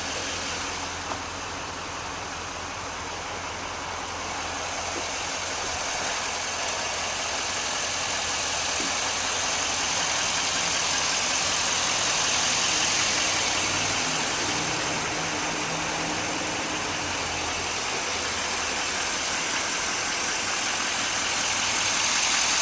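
Duramax 6.6 L V8 turbo diesel engine of a Chevrolet Silverado 2500HD idling steadily, a low hum under an even hiss, slowly growing a little louder.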